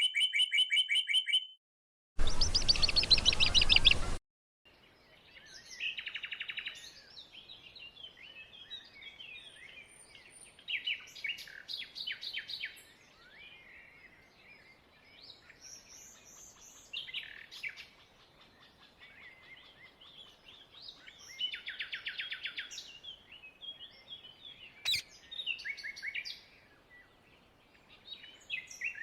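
Indian ringneck (rose-ringed) parakeets giving harsh, rasping screech calls in bursts every few seconds. The first four seconds hold two louder, cleaner bursts of sound before the outdoor calling begins.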